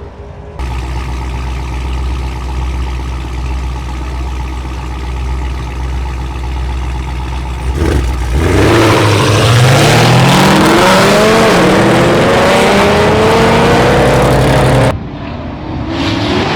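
Race car engines running steadily at a low, rumbling cruise, then about eight seconds in going to full throttle, their pitch climbing hard as they accelerate in a roll-race launch. The loud acceleration cuts off abruptly near the end.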